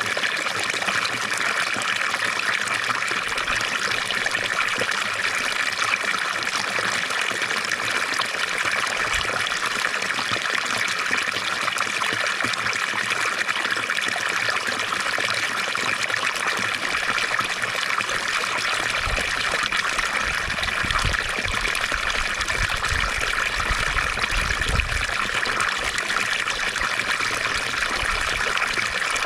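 Water from a fountain trickling and splashing steadily.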